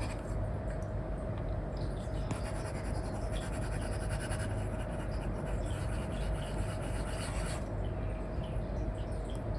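Apple Pencil 2 stylus rubbing and scratching across a paper-like screen protector film in short irregular strokes, busiest in the middle, over a steady hiss and low hum.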